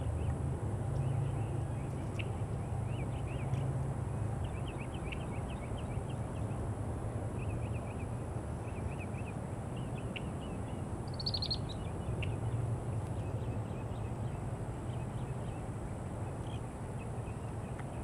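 Red-winged blackbird calling: short, repeated chirps throughout, with one brief higher call about eleven seconds in, over a steady low hum.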